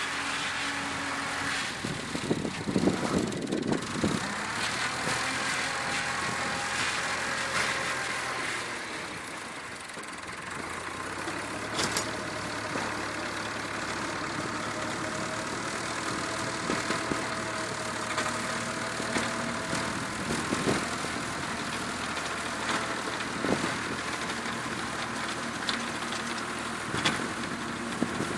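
Tractor engine running steadily, with a few sharp clicks and knocks over it; its note changes about ten seconds in, with a low hum after.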